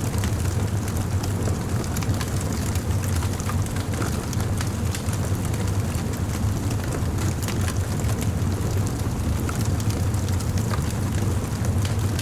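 A wood bonfire burning: many small crackles and pops scattered over a steady low rumble.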